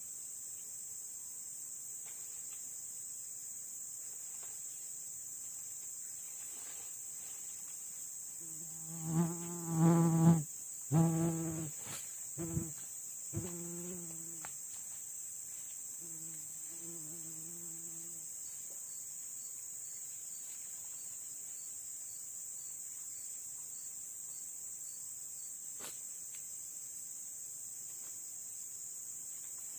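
Insects droning steadily on one high pitch. About nine seconds in, a run of loud, low, steady-pitched notes, some five short calls over about five seconds, with a couple of fainter ones a few seconds later.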